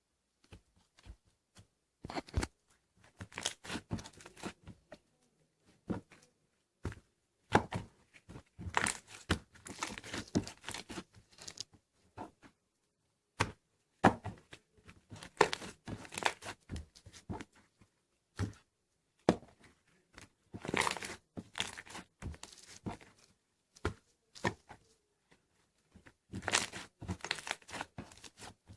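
Slime being squeezed, stretched and pressed by hand, giving irregular runs of sticky crackles and pops with short pauses between handfuls.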